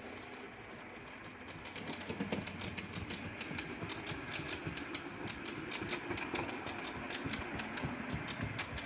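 Model train running on a layout track, with a steady hum and many quick clicks from the wheels over the rail that begin about a second and a half in.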